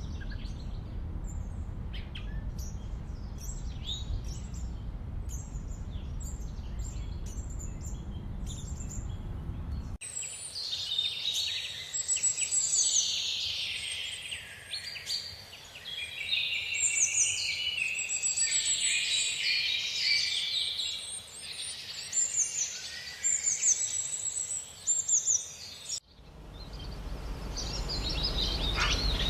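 Birdsong ambience in edited sections. First, a few scattered chirps over a low rumbling noise. About ten seconds in, a hard cut to a dense chorus of many birds calling and trilling at once, and near the end the low rumble returns with only a few calls.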